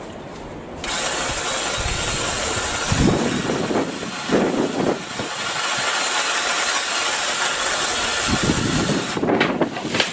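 BLACK+DECKER 18V cordless saw motor switched on about a second in, running at speed through a cut with a few low thuds, then cut off suddenly near the end.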